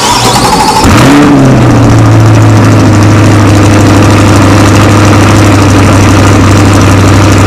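A 2022 Chevrolet Corvette C8 Stingray's 6.2-litre LT2 V8 starting up. The revs flare briefly about a second in, then the engine settles into a steady idle.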